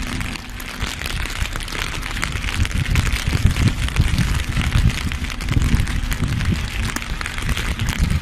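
A heavy truck running: a low, uneven rumble with dense crackling noise over it.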